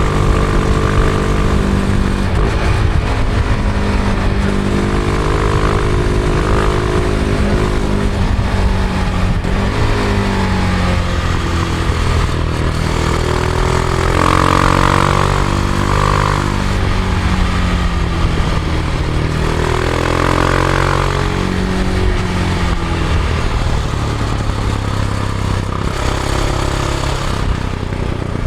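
Husqvarna Vitpilen 701's single-cylinder engine through its stock exhaust, pulling under way, its revs repeatedly rising and dropping back with gear changes over steady wind and road rush. It is heard from a recorder in the rider's backpack.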